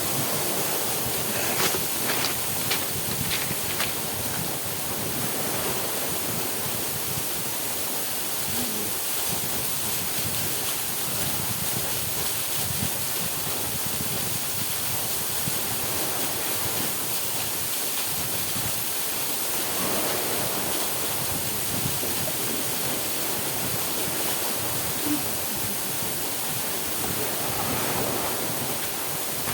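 Small waterfall pouring steadily, a constant rush of falling water that swells a couple of times. A few sharp clicks sound between about two and four seconds in.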